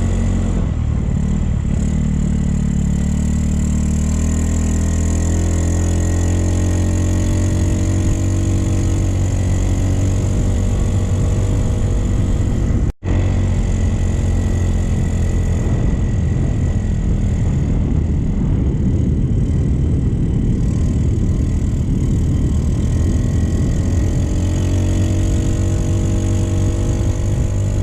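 Motorcycle engine running steadily under way, its pitch drifting slowly up and down with the throttle. The sound drops out for a moment about halfway through.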